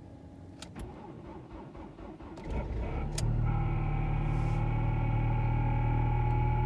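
A few clicks, then the Ford Mondeo Mk4's 2.3 Duratec inline-four cranks briefly and catches about three seconds in, settling into a steady cold idle. Over the idle the power steering pump hums with a steady tone that edges slightly higher, the pump straining with fluid thickened by the −21 °C cold.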